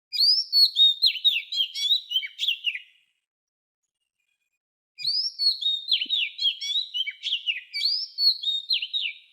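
A songbird singing: a quick run of high chirps and down-slurred notes for about three seconds, then after a two-second pause a second, longer run.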